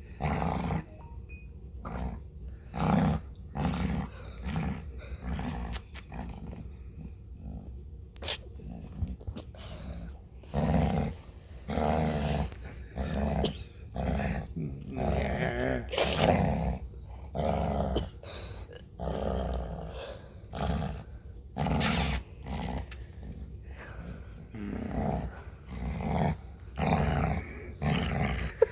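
Dog growling in a long run of short growls, one after another, one or two a second.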